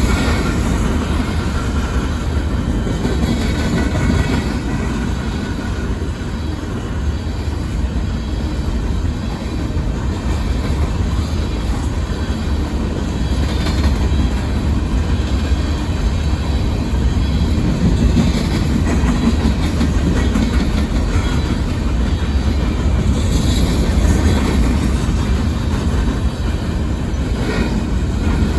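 Union Pacific coal train rolling steadily past: a continuous rumble of steel wheels on rail, with the clickety-clack of wheels crossing rail joints.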